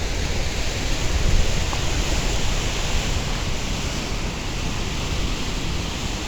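Steady rushing noise of wind buffeting the microphone over river water, with a heavy uneven low rumble and no distinct events.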